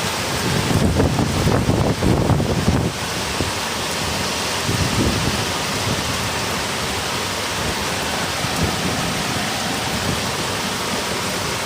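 Heavy rain pouring steadily in a strong windstorm, with a low rumbling surge of wind over the first few seconds and a shorter one about five seconds in.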